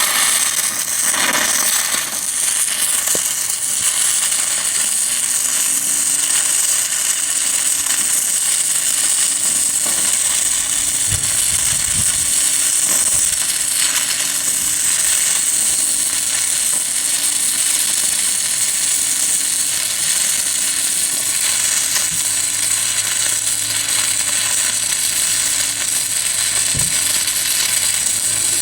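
6010 stick electrode burning a steady arc on 1/4-inch steel plate at about 85 amps, a continuous crackling sizzle with a strong high hiss; this is the cap pass on a corner joint.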